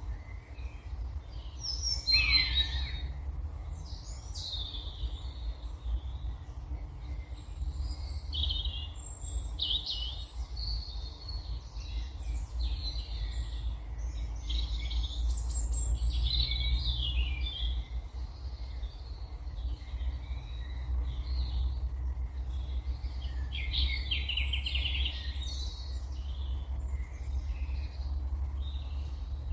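Wild songbirds singing and calling: a busy, varied run of high chirps, whistles and trills, over a low steady rumble.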